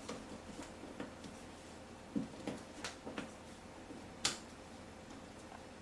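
Light taps and clicks of cardboard game cards being laid down and slid on a table, about eight in all, with one sharper click about four seconds in.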